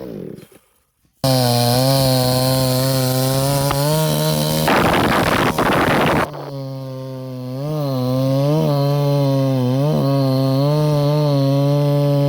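Chainsaw engine dropping in pitch and cutting out, then after about a second of silence running again at high speed. A loud rasping stretch of about a second and a half comes midway, and afterwards the engine pitch dips again and again, as under load.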